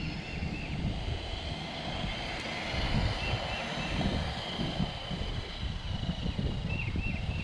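A 1/18-scale electric RC monster truck running, its motor giving a steady high whine over a rough, uneven low rumble.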